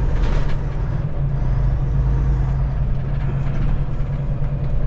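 Semi-truck's diesel engine running steadily under way, with tyre and road noise, heard from the cab. A short hiss comes near the start.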